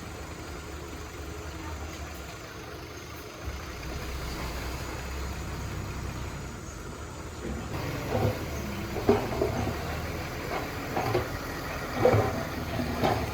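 Heavy equipment's engine running steadily at low speed, with a series of short knocks and clunks from about eight seconds in.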